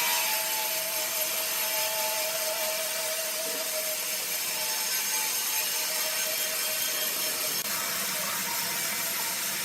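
Large sawmill saw cutting lengthwise through a log: a continuous sawing hiss with a steady whine over it.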